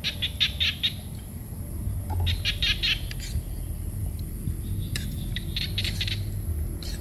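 A bird calling in three short bursts of rapid chattering notes, each burst about a second long, over a low steady rumble.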